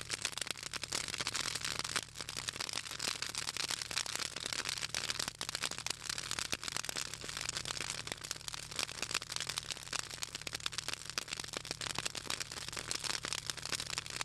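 Pruned southern magnolia branches burning in an open fire, crackling and popping continuously with many sharp, irregular snaps; the oil in the magnolia wood and leaves is what makes it crackle.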